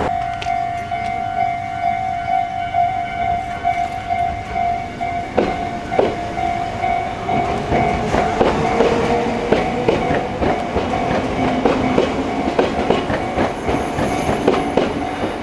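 Chichibu Railway 5000 series resistor-control electric train pulling out of a station: the traction motor hum rises in pitch as it accelerates and the wheels clack over rail joints faster and faster. A long steady high tone sounds during the first few seconds, then fades.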